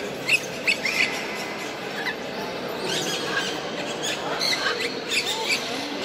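Many caged birds chirping and squeaking in short, high calls, scattered irregularly over a steady low murmur of background noise.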